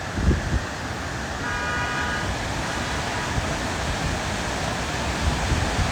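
A vehicle horn sounds once, a single held note lasting under a second, about a second and a half in. Under it runs the steady rush of the waterfall, with a few low thumps near the start.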